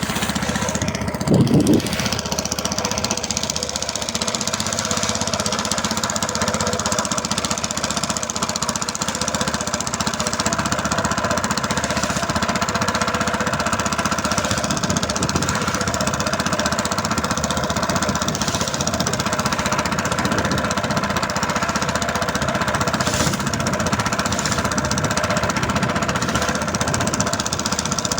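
Boat engine running steadily with a fast knocking beat. A brief, louder low thud comes about a second and a half in.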